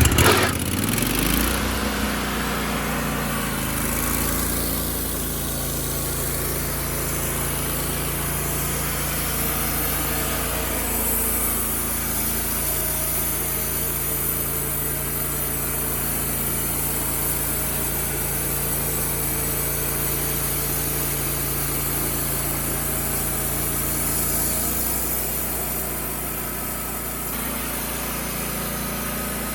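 Wood-Mizer LT15 Wide portable sawmill's engine running steadily under load, driving the band blade through an oak log. The note settles in the first second or two and eases slightly near the end.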